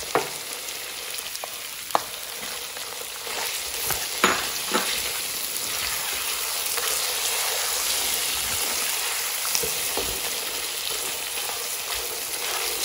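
Mutton and masala sizzling in hot oil in a nonstick karahi while a silicone spatula stirs them, with a few sharp clicks of the spatula against the pan. The sizzle grows louder about three to four seconds in. This is the bhuna stage of a mutton karahi, the meat being fried dry with spices and tomato paste.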